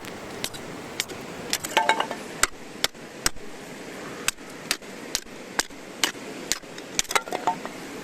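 A series of about fifteen sharp, irregular knocks and clicks over a steady hiss, a few of them with a brief ringing tone, such as knife or utensil strikes.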